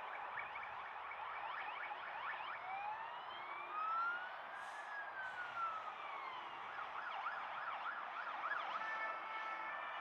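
Emergency vehicle siren: a slow wail rising and falling over about four seconds, then a fast yelp sweeping up and down a few times a second, over a steady background noise.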